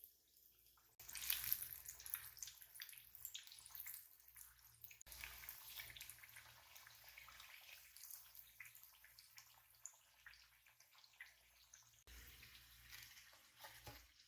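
Faint running water and splashing, as from a kitchen tap, in a few short clips with abrupt cuts between them.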